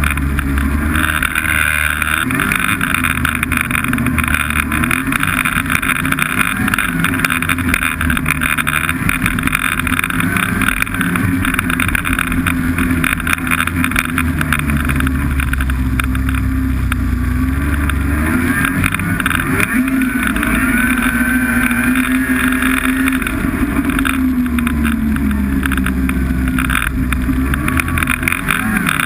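Snowmobile engine running under way, its pitch rising and falling with the throttle over a steady rush of track and wind noise.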